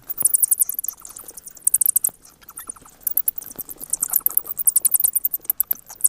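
A bat chittering: bursts of rapid, high-pitched clicks, each burst lasting under a second, repeating several times.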